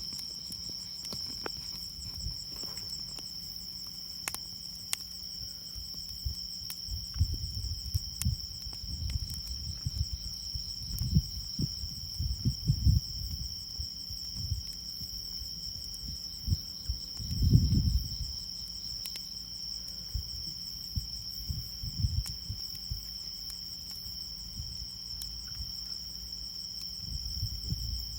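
Crickets trilling steadily in two high tones, with scattered sharp crackles of a wood fire. There are a few low dull rumbles, the loudest about 17 seconds in.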